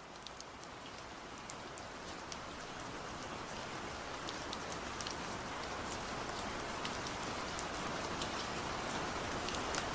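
Steady rain falling on a surface, with scattered individual drops ticking over it, starting abruptly and slowly growing louder.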